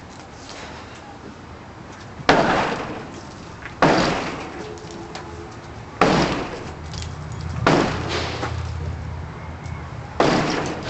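Demolition of a rotten covered-porch roof: five sharp crashing blows, about two seconds apart, each trailing off in a clatter.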